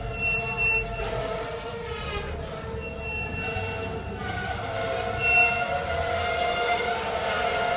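Loaded container freight wagons rolling slowly past, their wheels giving a steady squeal. Brief higher squeals come near the start, about three seconds in and about five seconds in, the last one loudest.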